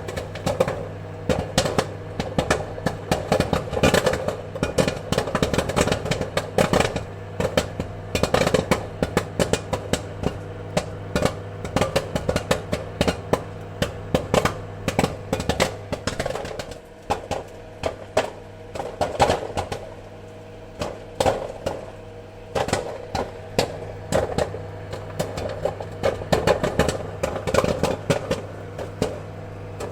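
Popcorn kernels popping in quick, irregular bursts of sharp pops, over a steady low hum. The popping is densest in the first few seconds, thins out around the middle, and picks up again near the end.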